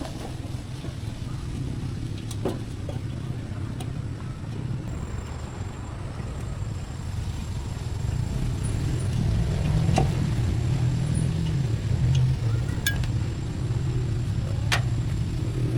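An engine running steadily with a low hum, a little louder from about halfway. A few light clinks sound over it.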